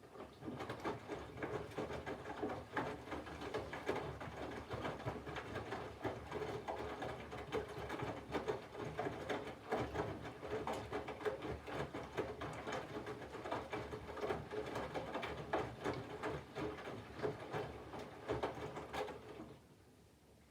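Candy front-loading washing machine's drum turning one way with wet laundry tumbling and sloshing inside: an uneven run of soft thuds and clicks over a low motor hum. This is a tumble during the water-heating phase of the wash. It stops about a second before the end.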